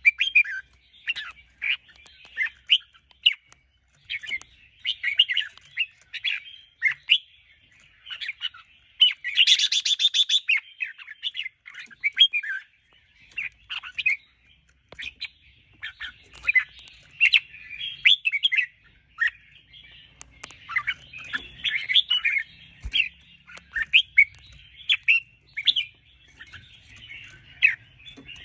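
Red-whiskered bulbul song: a continuous run of short, quick chirping phrases, with a harsher, buzzier burst about nine seconds in.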